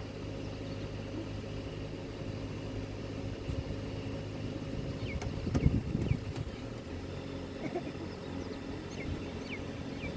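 A vehicle engine idling steadily, with short high falling bird chirps here and there and a brief louder low burst of sound about halfway through.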